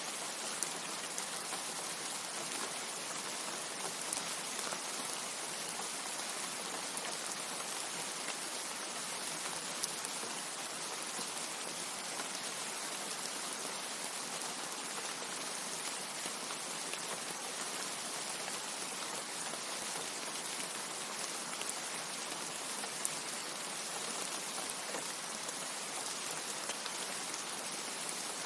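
Steady rain falling, a dense even hiss with a few sharper single drops ticking now and then.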